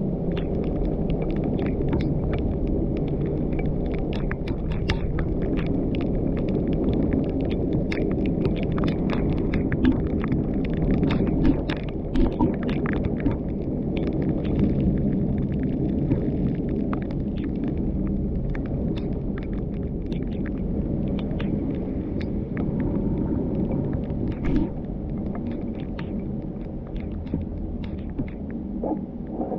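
Car driving on a mountain road: steady low rumble of the engine and tyres, with scattered sharp ticks throughout, densest about a third of the way in.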